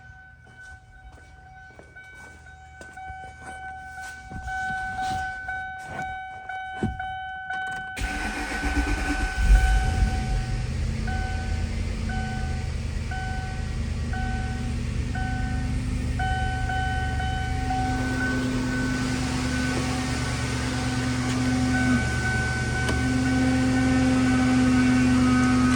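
Clicks and a steady electronic warning chime, then about eight seconds in the 2002 Ford Thunderbird's 3.9-litre V8 starts and runs steadily at idle. The chime goes on and off in an even pattern for a while after the start.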